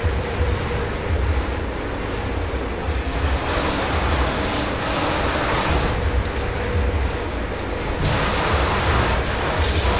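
Water spraying in a dish pit: two hissing bursts of about three seconds each, over a steady low machine hum.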